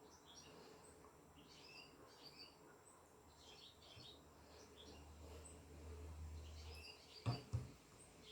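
Near silence with faint bird chirps in the background, scattered through. Two soft knocks come close together near the end.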